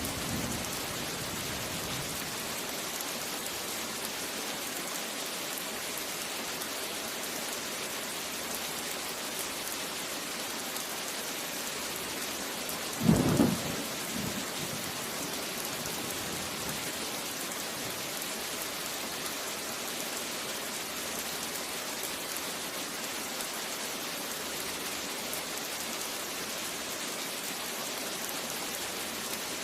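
Steady rain falling, an even hiss throughout. A low thunder rumble fades out over the first couple of seconds, and a short, loud thunderclap breaks in about halfway through.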